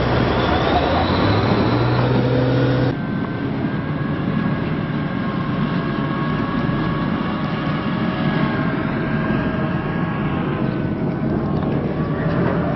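Tracked armoured vehicle running, a steady engine drone with high whining tones from the drivetrain. The sound drops and changes abruptly about three seconds in, then runs on steadily.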